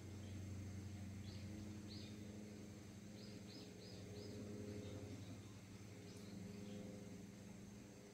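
Faint steady low hum, with short high chirps of a bird coming singly and in a quick run of about five notes.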